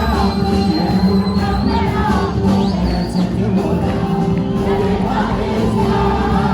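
Ethiopian gospel worship song (mezmur): singing over a steady instrumental backing.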